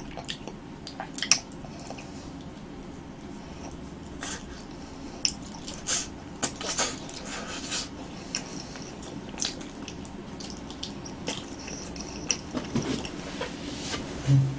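Close-miked chewing of soft roasted sweet potato: wet, sticky mouth sounds and lip smacks at irregular intervals, with a sharper click about a second in and a denser patch around the middle.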